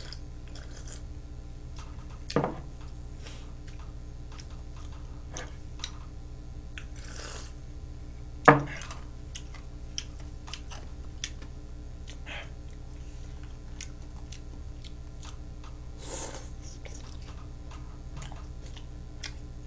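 A person eating: chewing with many small clicks of chopsticks and plastic takeaway trays, over a steady low hum. A knock on the table about two seconds in and a louder one about eight and a half seconds in.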